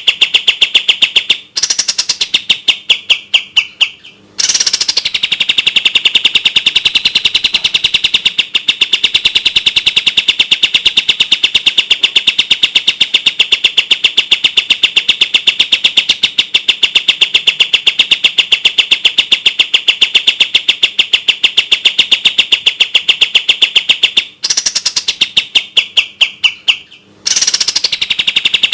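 Kapas tembak songbird singing a long, rapid, tightly spaced trill of sharp notes, like a machine-gun burst. The trill breaks briefly about 1.5 s and 4 s in and again near the end, each time restarting with a few notes that drop from high to its steady pitch.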